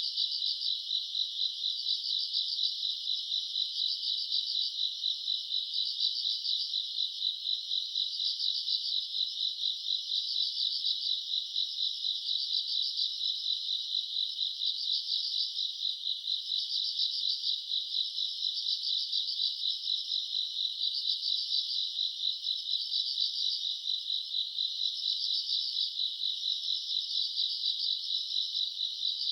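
Dense, unbroken chorus of grass insects chirping: many high-pitched, rapidly pulsing trills overlapping, swelling and fading about once a second.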